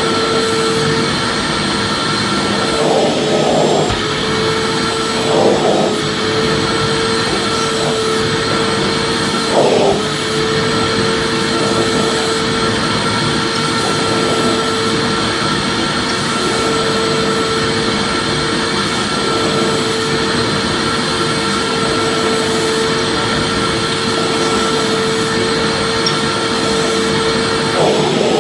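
Vacuum cleaner running steadily, its motor giving a constant whine over an even rushing noise. There are a few brief surges, about three, five and a half and ten seconds in and again near the end.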